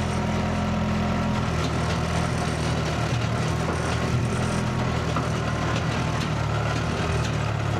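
Skid steer engine running steadily, its speed shifting slightly a few times.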